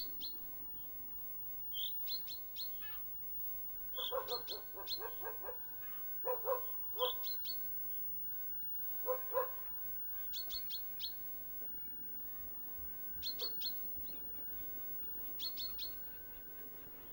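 A small songbird repeating a short, high chirping phrase every couple of seconds. A dog barks in short runs about four, six and nine seconds in. A faint steady high tone runs through the middle.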